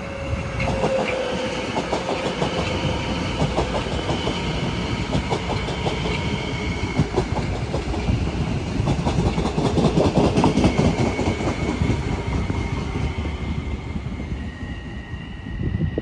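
Train passing, its wheels clicking rapidly over rail joints over a steady rumble. It is loudest about ten seconds in and fades near the end.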